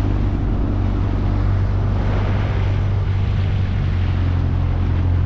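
Honda BF20 four-stroke outboard motor running steadily, driving an inflatable boat, with wind buffeting the microphone.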